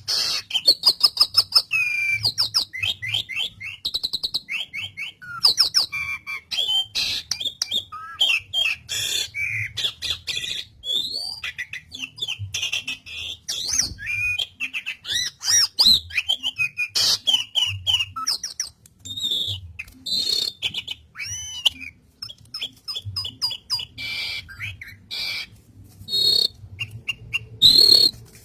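Asian pied starling (jalak suren) singing without a break: a rapid, varied stream of sliding whistles and chattering clicks.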